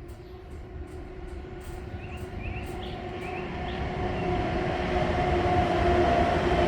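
A train approaching: a low rumble with a steady hum grows steadily louder. A few faint bird chirps sound early on.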